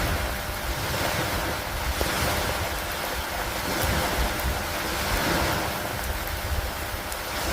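Steady rainstorm on a wooden lakeside dock: an even hiss of rain over a low wind rumble, swelling and easing every couple of seconds like wind gusts or lapping water.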